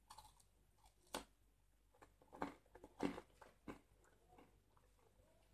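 Faint chewing of a sesame snack bar, with about five short crunches and mouth clicks over the first four seconds.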